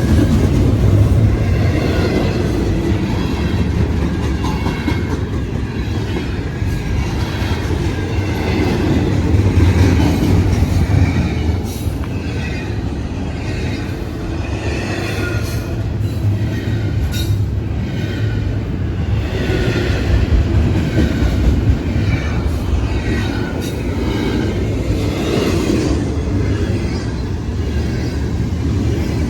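A train running with a steady heavy rumble, overlaid by faint, wavering high squeals from its brakes coming and going throughout, and a few sharp clicks.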